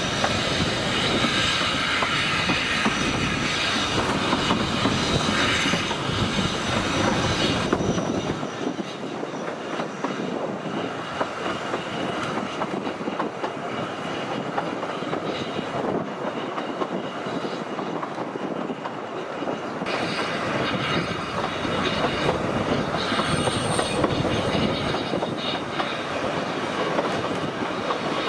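Narrow-gauge steam train running along the track, heard from aboard a carriage: steady rumble and clatter of the wheels on the rails. A high squeal rides over it for the first several seconds and again from about two-thirds of the way through. It is quieter and duller in between.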